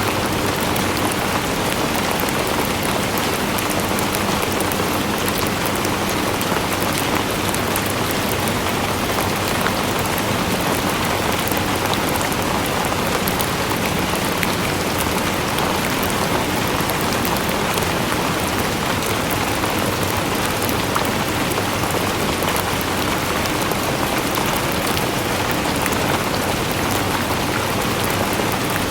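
Steady rain falling, an even hiss with many fine drop ticks, unchanging in strength.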